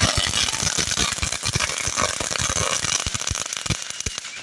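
Firework crackling: a rapid, irregular run of sharp pops over a hiss, dying away near the end.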